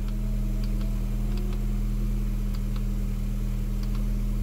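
Audi A4 2.0T turbocharged four-cylinder idling steadily, heard from inside the cabin, with a few faint clicks scattered through.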